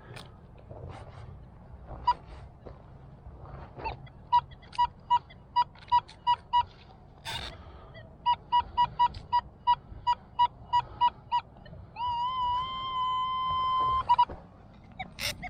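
Metal detector sounding a target tone: a string of short beeps at one pitch, about two a second, then quicker, then one steady held tone for about two seconds near the end as the coil passes over and settles on a buried metal target. A brief scuff of handling or digging comes in the middle.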